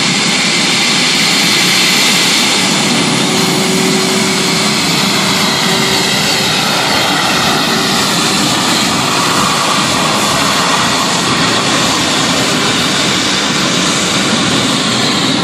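Jet turbine engine of a pulling tractor running loud and steady: a dense rush with a high whine, its pitch wavering slightly.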